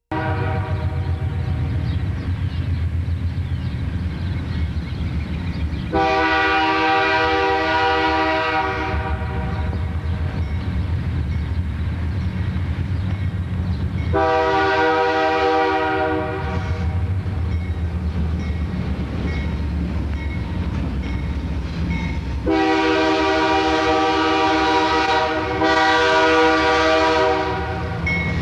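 Diesel freight locomotives passing with a steady engine rumble, sounding a multi-note air horn four times: three long blasts several seconds apart, the last followed almost at once by a shorter one.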